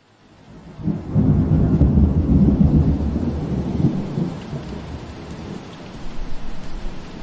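Steady rain, rising in from silence, with a long low roll of thunder that swells about a second in and slowly dies away over the next several seconds.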